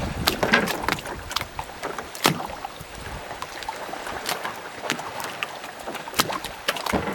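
Rowboats moored at a dock, with irregular knocks and slaps from their hulls bumping and water lapping against them, over a steady hiss of wind and water.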